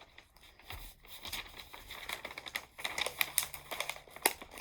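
Parchment paper crinkling and crackling as hot-glue drips are peeled away from it. A run of small sharp crackles grows busier and louder about three seconds in.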